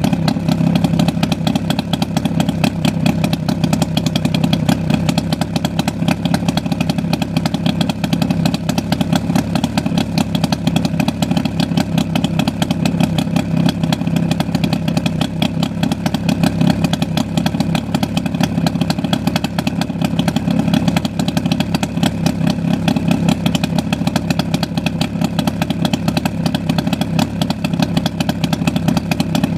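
Jawa 638's 350 cc two-stroke twin-cylinder engine running steadily, with a rapid, even exhaust beat and no change in speed. The engine has new ZVL bearings and seals throughout and a re-pressed crankshaft, and runs on its original, unbored piston and cylinder set.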